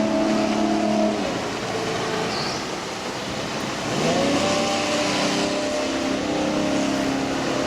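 MerCruiser 4.3 V6 engine of a jet boat running under load. It eases off about a second in, then revs up in a quick rising sweep around four seconds in and holds steady at the higher speed, over a constant rushing noise.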